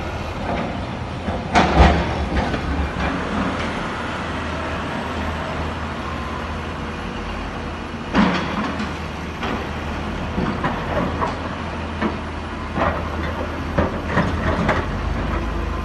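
Heavy earthmoving machinery at work: a steady low engine rumble with several loud metallic clanks and knocks, the loudest about two seconds in and another about eight seconds in, then a run of knocks near the end.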